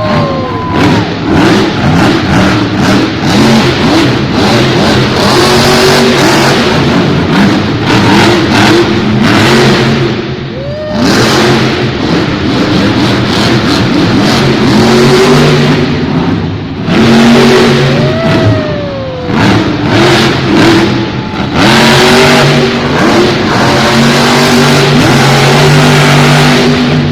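Monster truck's supercharged V8 revving hard over and over, its pitch rising and falling, with a couple of brief dips where the throttle comes off.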